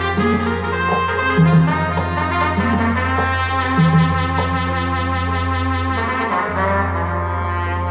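Instrumental break played on a keyboard: a brass-like lead voice holds sustained chords over a steady bass line, with a cymbal-like beat ticking about once a second.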